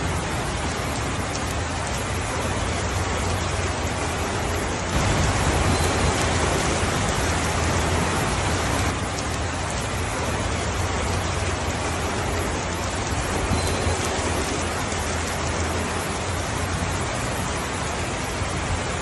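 Steady rainfall, an even hiss. It grows louder for about four seconds starting around five seconds in, then settles back.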